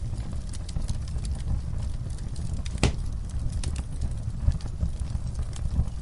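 Campfire burning: a steady low rumble of flames with scattered crackles and pops, one sharper pop near the middle.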